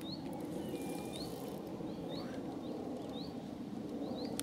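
A small bird repeating a short rising chirp, about two a second, over a steady low outdoor rumble. A single sharp click at the end.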